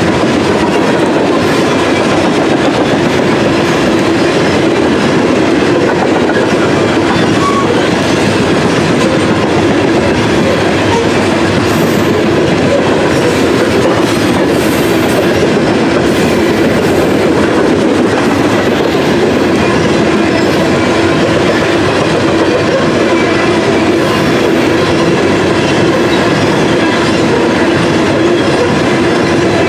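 Freight train of open-top hopper cars rolling past close by: steel wheels on the rails in a steady, loud rumble.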